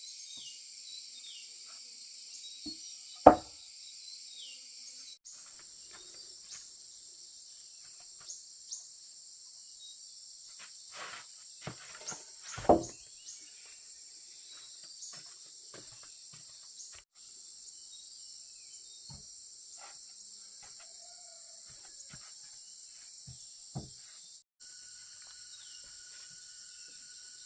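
Steady high-pitched insect chorus, with a few sharp knocks, the loudest about three seconds in and another near the middle. The chorus breaks off for an instant three times.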